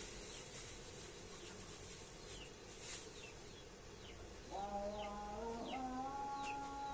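Birds chirping: repeated short falling cheeps, about two a second, typical of chickens or chicks. From about four and a half seconds a louder held, pitched sound joins in and steps up and down in pitch.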